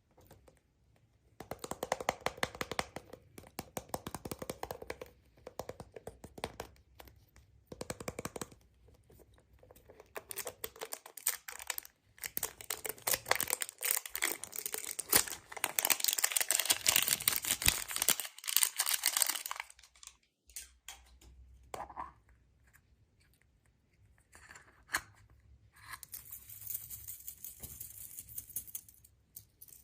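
Surprise-egg wrapping being torn and crinkled by hand: dense crackling in stretches of several seconds with short pauses between them, loudest in the middle.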